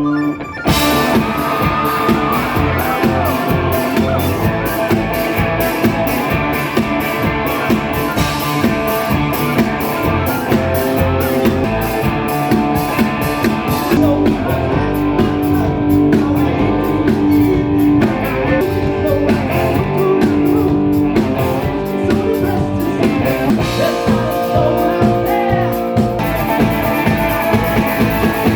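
Rock music from a band: guitar over a drum kit, playing steadily.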